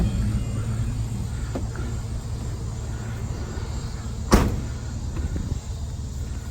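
Vehicle engine running steadily with a low rumble, and one sharp knock about four seconds in.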